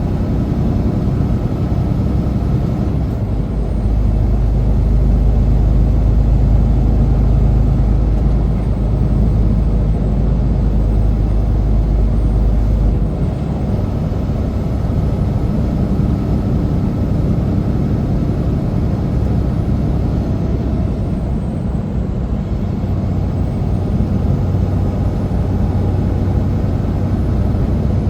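Semi truck's diesel engine running steadily, a deep low drone with road noise; the lowest rumble eases off about 13 seconds in.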